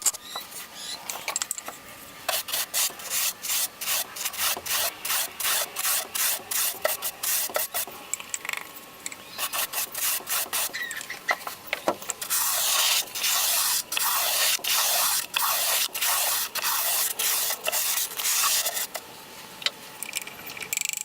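Small pieces of ash wood being rubbed by hand with sandpaper: a long run of scratchy back-and-forth strokes, about two or three a second, growing louder and faster about twelve seconds in.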